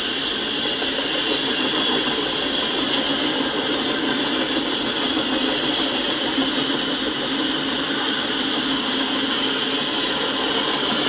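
Freight cars rolling past: a steady noise of steel wheels running on the rails, with rattling from the cars.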